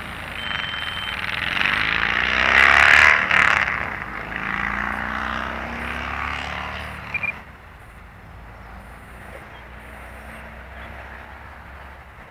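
Large radio-controlled model airplane flying past close by, its motor and propeller growing loud to a peak about three seconds in, with the pitch sliding down as it goes by, then falling away suddenly about seven seconds in.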